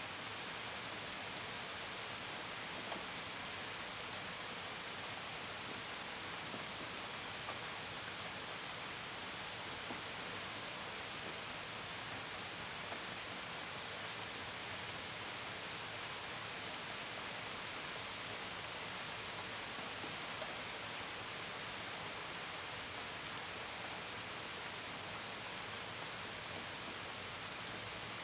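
Steady gentle rain, an even hiss with the patter of drops and an occasional sharper drop tick. Crickets chirp faintly behind it in a high, evenly repeating pulse.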